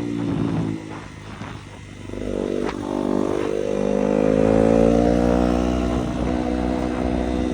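Yamaha 250 YZF motorcycle engine running. It drops back briefly about a second in, then climbs in revs to a peak a few seconds later and eases off slightly.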